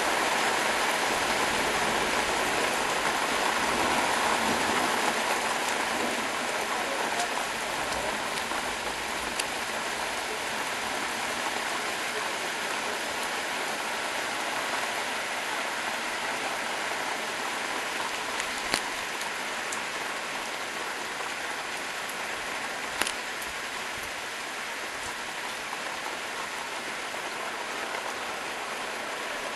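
Heavy rain falling steadily in a downpour, a dense hiss that eases slightly over time, with a few sharp ticks of single drops.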